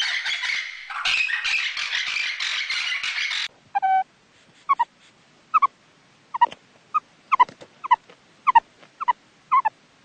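A sulphur-crested cockatoo screeching harshly in quick, repeated calls for the first three and a half seconds. It cuts off and is followed by a meerkat giving about a dozen short, sharp chirps, each dropping in pitch, roughly two a second.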